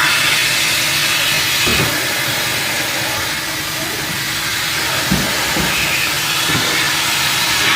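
Vacuum cleaner running with a steady rushing hiss of air and a faint hum, with a couple of low bumps as it is moved.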